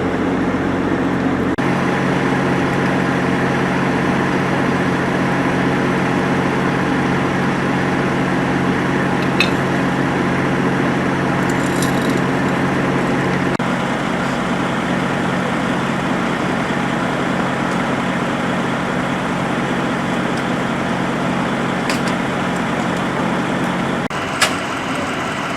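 A vehicle engine idling steadily, a low hum that drops away about two seconds before the end, with a few brief sharp clicks along the way.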